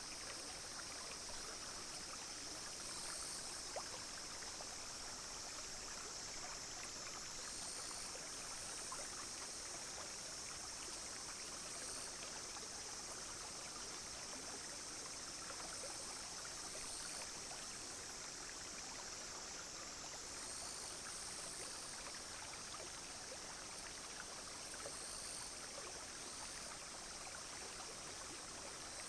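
A shallow brook babbling steadily, with many small splashes and droplets, while cicadas and other insects keep up a steady high-pitched drone with slight pulses over it.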